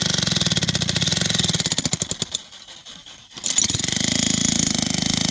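A small engine running with a fast, even beat; it drops away for about a second in the middle, then picks up again.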